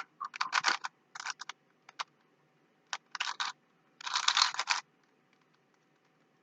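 Rubik's Cube layers being twisted by hand: quick runs of plastic clicking and clacking in short bursts, with pauses between turns, the last burst ending about five seconds in.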